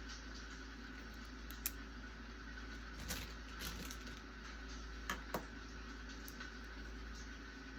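A steady hiss of a rain background, with a few light desk clicks and taps from studying: one sharp click about a second and a half in, a softer cluster around three seconds, and two clicks close together near five seconds.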